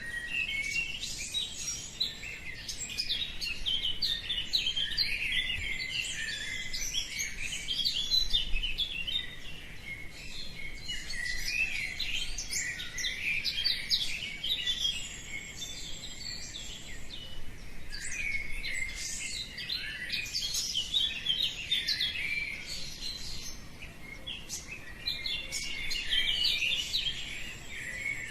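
Many birds chirping and singing at once, short calls and trills overlapping without a break.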